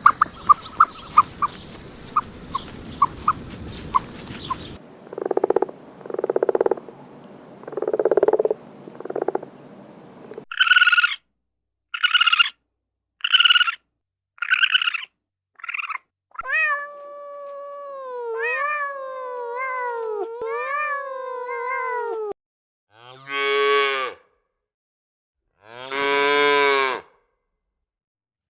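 A string of different animal calls, one clip after another: a quick series of clicks over a hiss, then four low calls, six short higher calls, a run of calls that glide up and down in pitch, and two long calls near the end.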